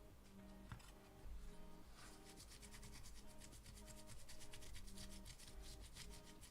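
Faint scrubbing of a flood-corroded circuit board, a brush or scraper working back and forth in rapid strokes that begin about two seconds in, over quiet background music.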